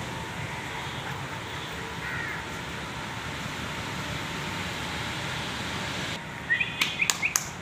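Steady outdoor background noise, like distant traffic. Near the end comes a quick run of several sharp clicks with short rising chirps.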